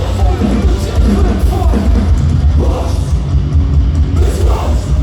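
Metalcore band playing live at full volume: distorted guitars and drum kit with heavy, booming bass, and a vocalist singing over them.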